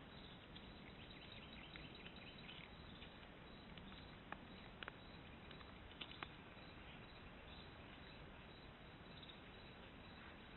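Near silence outdoors: a steady faint hiss from the game camera's microphone, with a few faint sharp ticks about four and six seconds in.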